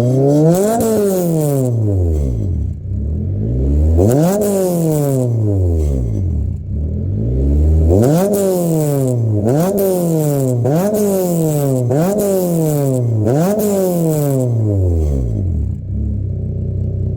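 Honda Civic Type R FD2's K20A four-cylinder engine revved through a straight-piped exhaust with the catalytic converter deleted. There are about eight throttle blips, each rising and falling in pitch: three slow ones, then five quicker ones. It drops back to a steady idle near the end.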